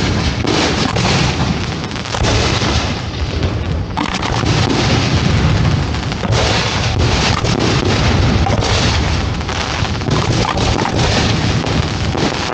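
Aerial fireworks display firing: a dense, continuous barrage of overlapping booms and sharp pops from shells launching and bursting.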